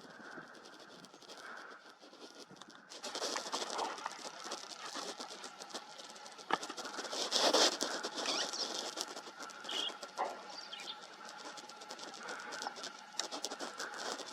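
Rustling and scratching in dry brush and leaf litter: dense, irregular crackling that grows louder and busier about three seconds in.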